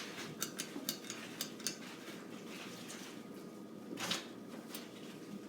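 Light metallic clicks and clinks, about six in the first two seconds, then a brief scrape about four seconds in.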